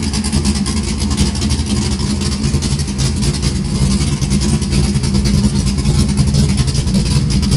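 A 1969 AMC AMX drag car's 406-cubic-inch Chevrolet V8, a bored 400 small-block, running steadily at idle through its exhaust.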